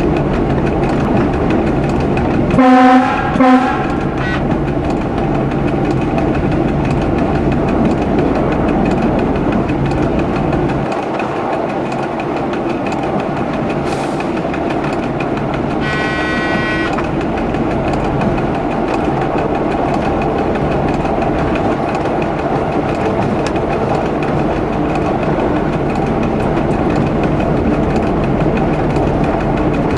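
Diesel local train running steadily, heard from the driver's cab, with regular clicks from the rail joints. The horn sounds twice in quick succession about three seconds in, the loudest thing here. A brief, higher pitched tone follows about halfway through.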